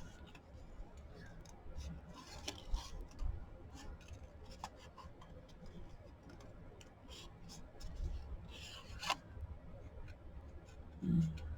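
Scissors trimming paper in short, irregular snips, with a sharper cluster of cuts about nine seconds in.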